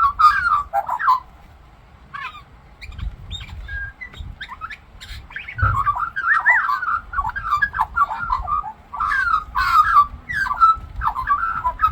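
Australian magpie warbling a rapid, jumbled song of gliding notes. It breaks off about a second in, leaving a few scattered notes, and takes up its song again about six seconds in, just after a soft thump.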